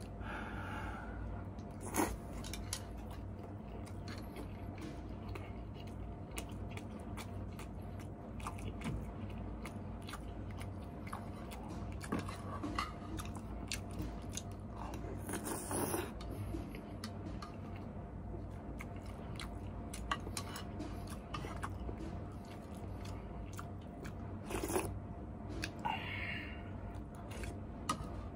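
Close-up mouth sounds of a person chewing noodles and the balls in the soup, with many small wet clicks and a few louder sharp sounds about 2, 16 and 25 seconds in. A steady low hum runs underneath.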